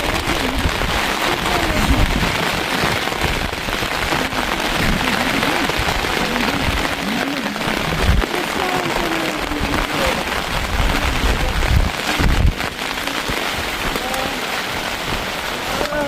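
Steady heavy rain falling, with a dense, even hiss of drops on surfaces. Faint voices can be heard underneath.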